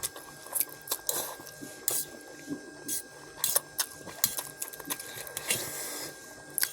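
Eating noises: irregular clicks of a fork or spoon against a plate, with short slurps of noodles.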